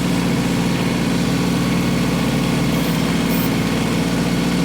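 Diesel engine of an LS XG3025 compact tractor running at a steady speed, with an even drone.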